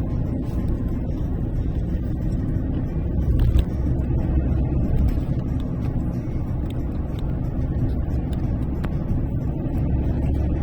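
Steady low rumble of a car driving at road speed, engine and tyre noise together.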